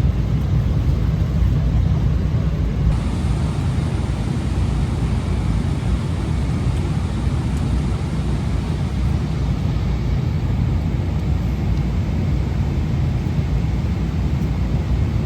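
Jet airliner cabin noise: a steady low rumble of engines and rushing air.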